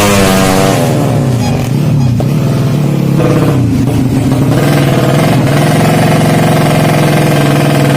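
Yamaha Jupiter drag-bike engine, bored up to 200cc, being revved. The revs fall away after a blip in the first second or so, dip low, then climb again about three seconds in and are held high and fairly steady to the end.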